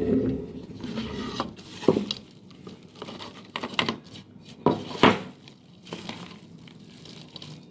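Meat grinder running down, its hum fading out within the first second and a half, then scattered clinks, knocks and crinkling, the loudest about two and five seconds in.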